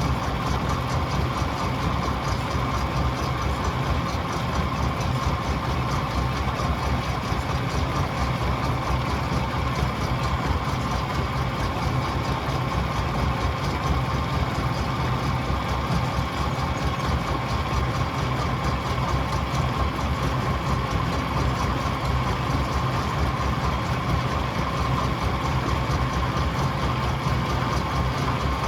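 Heavy stone-crushing machinery running steadily: a dense, continuous low rumble with a steady higher tone over it.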